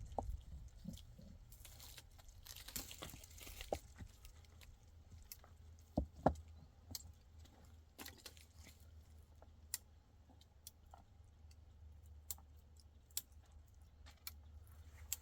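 Scattered small knocks and clicks over a steady low hum, with a brief rustle about three seconds in.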